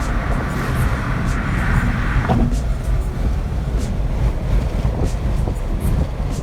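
Steady rumble of a car driving, with road and wind noise.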